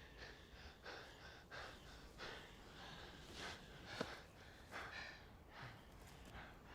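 Faint, heavy human breathing: a run of short breaths in and out, with a single sharp click about four seconds in.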